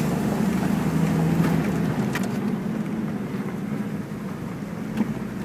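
Car engine running as it climbs a steep road, heard from inside the cabin with road noise; the engine note eases off about halfway through, with a couple of light clicks.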